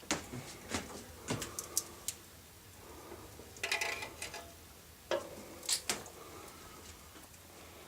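Freshly lit firewood crackling in a wood-burning stove's firebox: irregular sharp snaps and pops, with a quick cluster about four seconds in and a few louder pops around five to six seconds.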